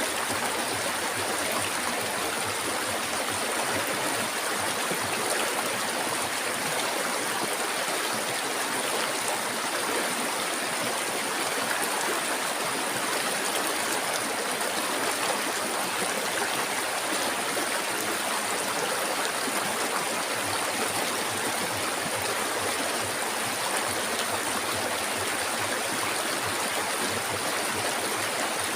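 Flowing river water, a steady, unbroken rushing.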